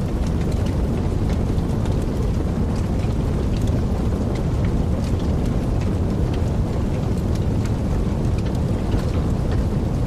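Wood fire burning in a fireplace: a steady low rumble of flames with light crackling, scattered small pops and snaps.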